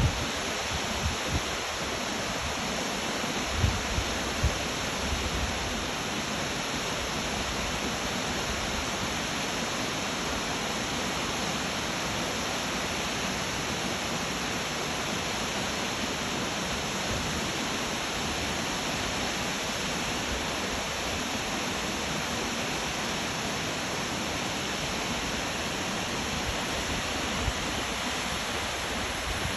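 Waterfall: a steady rush of falling water. There are a few low bumps in the first few seconds.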